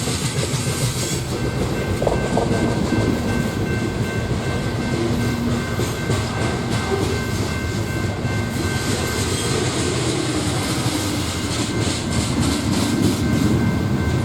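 Freight train rolling past: a steady rumble of railcars, with runs of wheel clicks over rail joints midway and again near the end.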